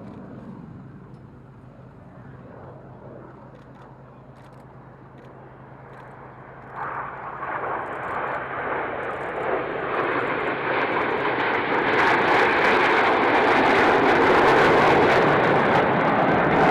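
Arriving aircraft's engines, faint at first, jumping up about seven seconds in and building to a loud, steady noise as the aircraft comes close.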